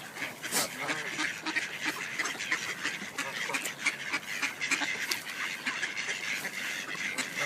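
A flock of birds crowding around food, many short calls overlapping without a break.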